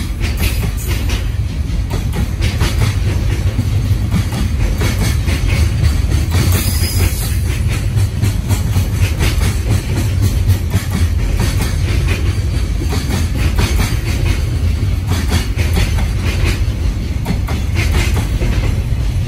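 JR Freight container train of Koki 104 flat wagons rolling past: a loud, steady, deep rumble of steel wheels on the rails, with a continual clatter of wheels over rail joints.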